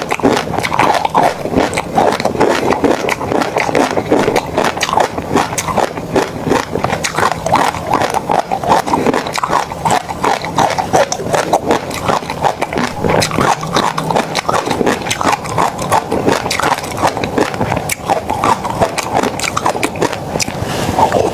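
Close-miked eating sounds: continuous chewing and mouth smacking, made up of many rapid small clicks and crackles.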